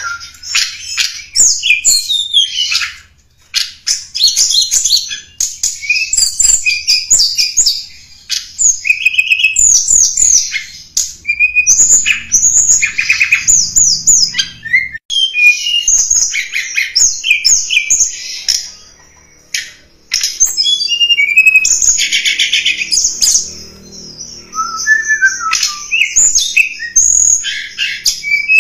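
Tledekan gunung singing loudly: a rapid, varied run of chirps, trills and short whistled slurs, broken by a few brief pauses.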